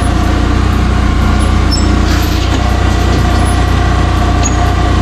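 A machine running steadily, a loud even drone with a strong low hum and a steady higher tone that does not change.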